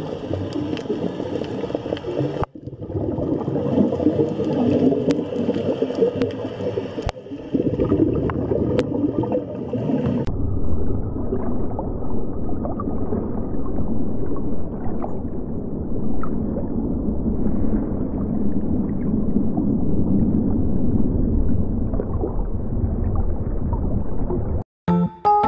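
Underwater ambience: steady gurgling water noise with faint clicks, changing about ten seconds in to a duller, deeper rumble.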